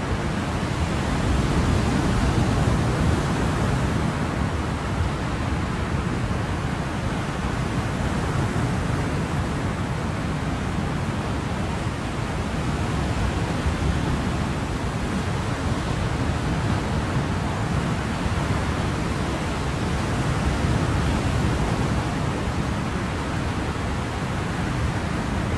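Ocean waves, a continuous wash of surf rising and falling gently every few seconds.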